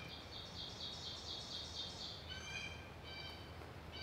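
Woodland birds singing: a rapid, high pulsed trill for about the first two seconds, then short call notes repeating about once a second, over faint forest background noise.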